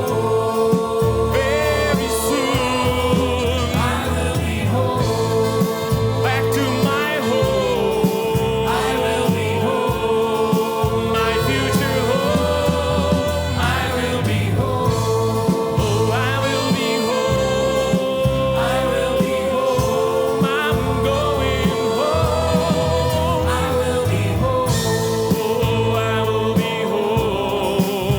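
Gospel song with choir singing over a band, steady and continuous.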